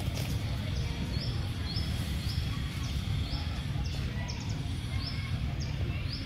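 A bird calling repeatedly: short high chirps about twice a second, over a steady low rumble of outdoor background noise.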